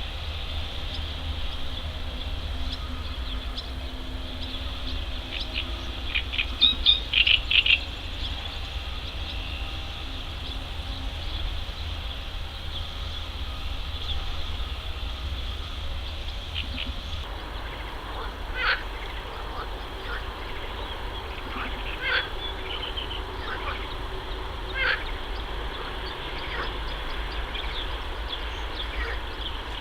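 Mallard ducks calling: a quick run of short calls about seven seconds in, then single calls every few seconds in the second half, over a steady low rumble.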